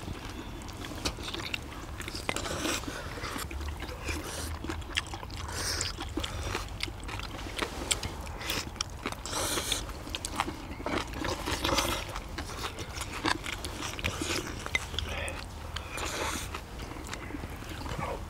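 Several people eating braised monkfish with bean sprouts and minari close to the microphone: chewing and crunching mouth sounds, with many short, irregular clicks.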